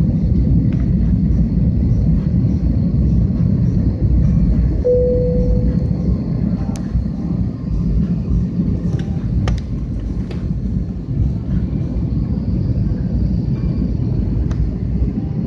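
Airbus A320-200 airliner making a steady, loud low rumble with a faint high whine above it.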